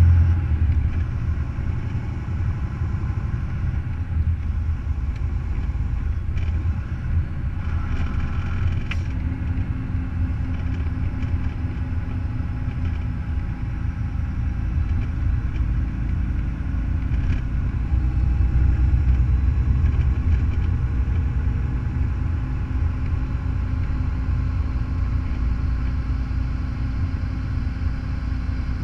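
Semi truck's diesel engine running with a steady low rumble, swelling slightly about two-thirds of the way through.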